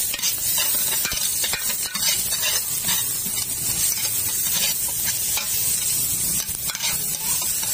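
Minced garlic and chopped onion sizzling in margarine in a pan, with a metal ladle repeatedly scraping and knocking against the pan as they are stirred.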